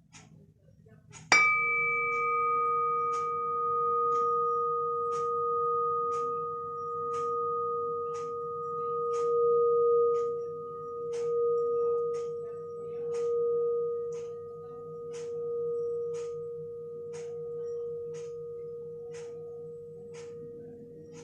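A frying pan lid struck once about a second in, ringing on with a slowly wavering hum that fades gradually, over a clock ticking about once a second.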